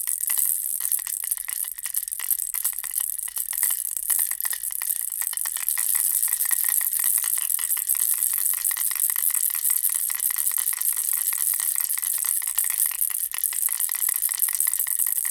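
A bear-ball baby rattle shaken without pause, its contents clicking and clattering rapidly. The shaking turns steadier and denser about six seconds in.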